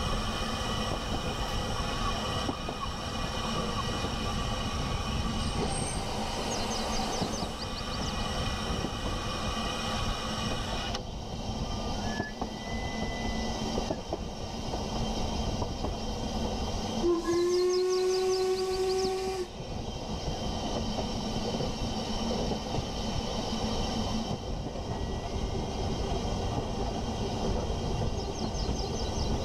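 A train running on rails, a steady rumble with rail rattle, likely a sound effect laid over the footage. About 17 seconds in, its horn sounds once for a little over two seconds.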